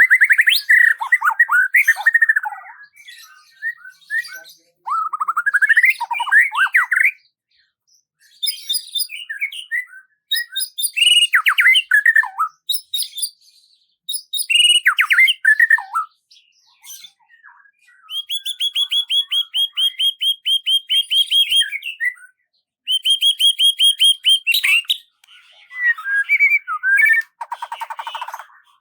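A songbird singing in separate phrases with short pauses between them: whistled notes and chirps, then fast, even trills twice in the second half, and a lower buzzy trill near the end.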